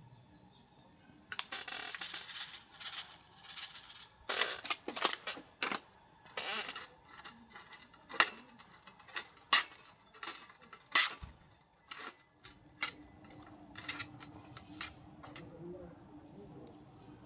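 Cookware and utensils being handled: a long run of irregular clinks and clatters that starts about a second in and stops shortly before the end.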